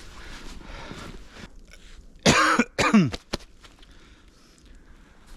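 Footsteps crunching in snow, then a man coughs twice, loud and short, each cough ending in a falling voiced tail.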